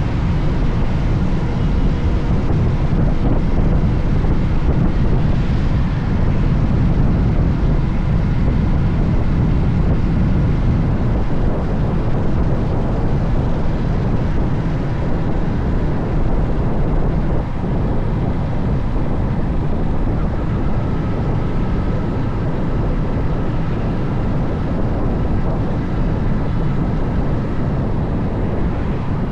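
Steady wind rush on the microphone of a moving motorcycle, mixed with engine and road noise, without a break.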